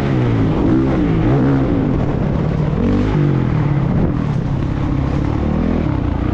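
Motocross bike engine revving hard, its pitch rising and falling again and again as the throttle is opened and closed and the gears change.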